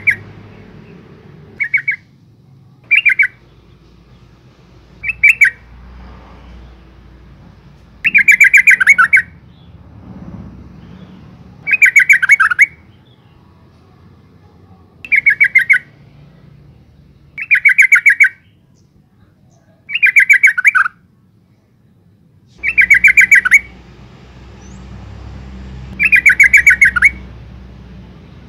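Female yellow-vented bulbul calling: repeated bursts of rapid chattering notes, about a dozen in all, the first few short and the later ones about a second long, coming every two to three seconds.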